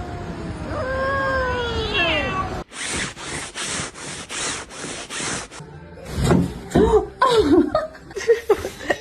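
A cat meowing in long calls that bend up and down in pitch. This gives way abruptly to a rhythmic noise of about two strokes a second, and then to louder, erratic cat yowls near the end.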